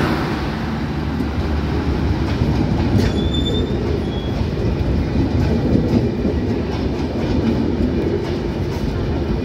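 Passenger coaches of the departing Nilsagar Express rolling past close by, with a steady rumble of wheels on rails and rail-joint clacks. A brief high wheel squeal comes about three seconds in.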